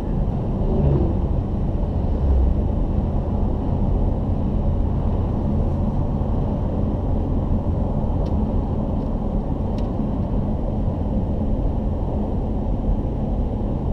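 A car driving at steady speed: a constant low rumble of engine and road noise.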